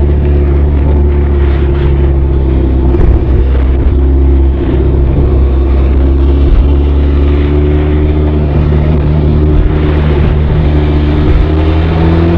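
Exhaust note of a Benelli TRK 502 motorcycle's parallel-twin engine under way, running at a fairly steady engine speed with small shifts in pitch and a brief dip about four and a half seconds in.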